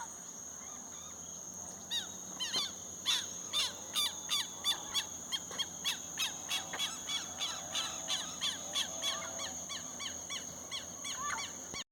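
Birds singing in the countryside: a long run of quick downward-sweeping notes, about three a second, starting about two seconds in, over a steady high-pitched insect drone.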